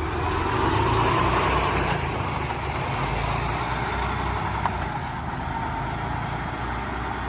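Peterbilt semi truck's diesel engine running, louder for the first two seconds and then a steady drone, with a single sharp click a little past halfway.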